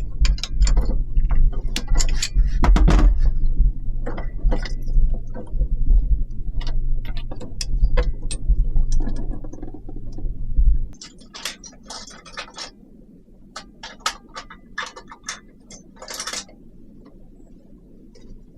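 Mechanical clicking and rattling over a loud low rumble. The rumble stops abruptly about eleven seconds in, and scattered clicks go on after it.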